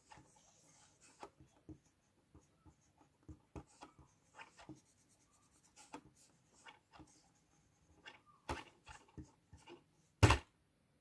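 Irregular small clicks and light knocks of something being handled, with one louder knock about ten seconds in.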